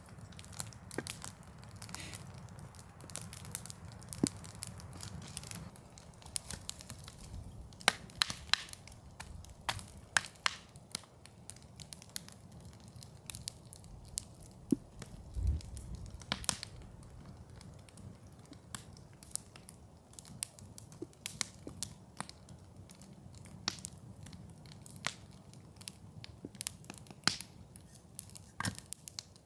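Rain: heavy drops tapping irregularly on an overhead cover, several sharp ticks a second over a soft steady patter. There is a single low thump midway.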